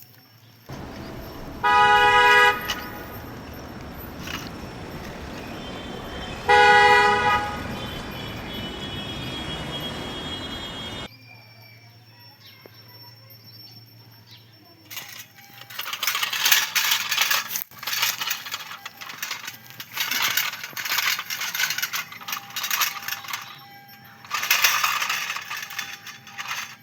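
Steady low engine rumble with two horn honks, each about a second long, a few seconds apart. This is followed by a stretch of loud, hissy bursts.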